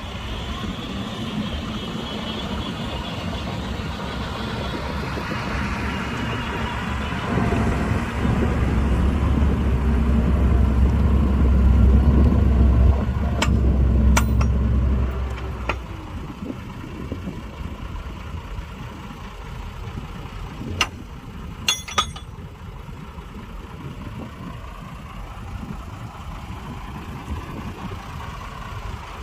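Heavy diesel earthmoving machine running. Its deep engine rumble rises and grows louder for several seconds in the middle, as if working under load, then settles back. A few sharp metallic clanks come in the second half.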